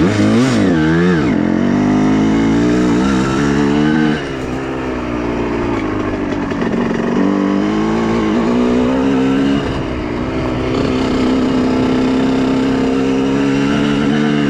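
Honda CR125R's 125 cc two-stroke engine under way, revved up and down in quick throttle blips about a second in. It eases off about four seconds in, then runs at steadier revs that rise and fall as the throttle is worked.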